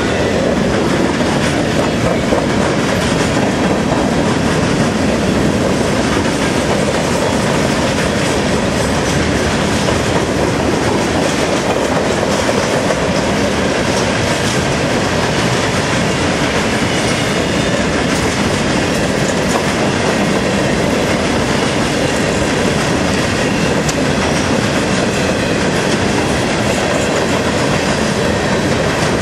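Freight train's cars, tank cars and covered hoppers, rolling past close by: a steady loud noise of steel wheels on rail, unbroken.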